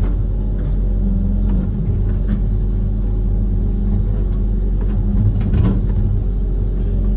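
Diesel engine of a Kobelco SK130 amphibious excavator running steadily while it works, with a few short clanks.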